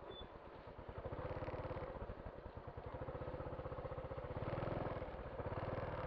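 Motorcycle engine running with an even pulse, growing louder about a second in and loudest in the second half before easing off a little.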